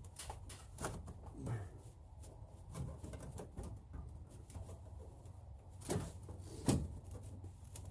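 Scattered taps, clicks and rustles of parts being handled and worked into place while a cold air intake is fitted in the engine bay, with two louder knocks near the end, over a steady low hum.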